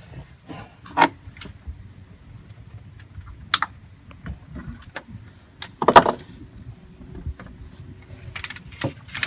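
Scattered knocks and metallic clinks of a heavy battery being worked down into a tight spot in a sailboat's engine space, with the loudest knock about six seconds in.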